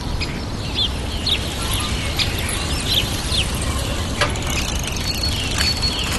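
Small birds chirping repeatedly in short, quick calls over a steady low rumble, with a single sharp click about four seconds in.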